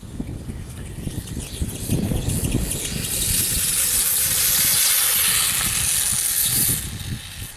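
A steady hiss that swells about three seconds in and fades near the end, over gusting wind rumble on the microphone.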